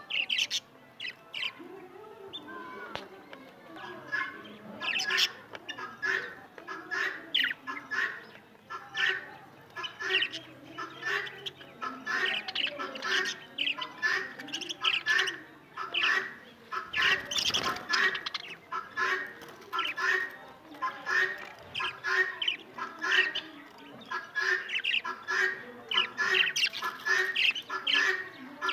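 Young parrots squawking: a long run of short, harsh calls repeated one after another, several birds calling at once.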